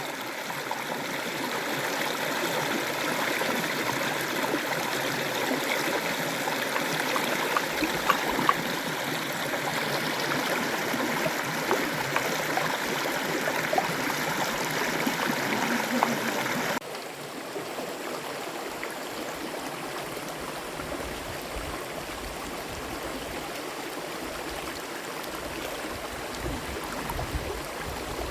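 Water flowing steadily, like a stream. About two-thirds of the way through it drops suddenly to a quieter flow.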